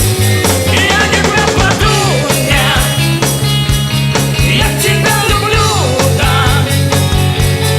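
A live band playing an upbeat rock-and-roll song: steady bass notes, drums on a regular beat, and a sung melody line over them.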